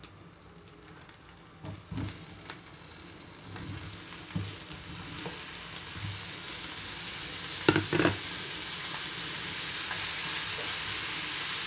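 Eggplant pieces sizzling as they fry in hot oil in a frying pan, the sizzle building steadily louder. A few light knocks of handling, the sharpest a pair about eight seconds in.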